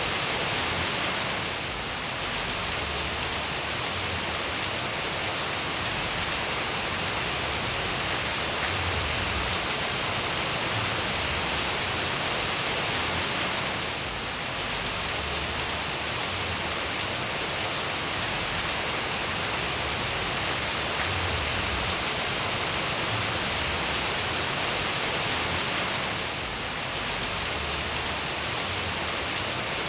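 Steady rain falling, a dense, even hiss of drops with no distinct individual strikes, dipping slightly in level every twelve seconds or so.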